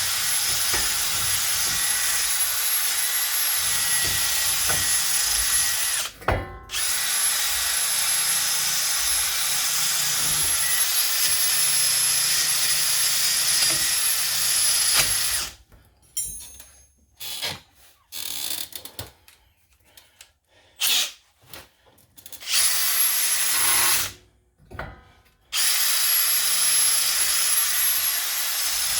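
Power drill spinning a wire brush at high speed, scrubbing rust off the steering knuckle's hub bore. It stops briefly about six seconds in, is triggered in short stop-start bursts through the middle, and then runs steadily again near the end.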